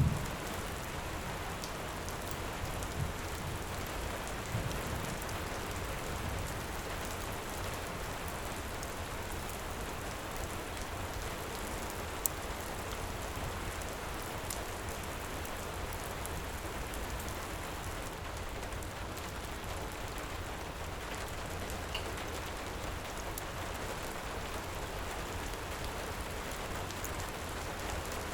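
Heavy rain falling steadily, with the tail of a low thunder rumble at the very start and a few fainter swells after it. A few sharp pops from a crackling wood fire sound over the rain.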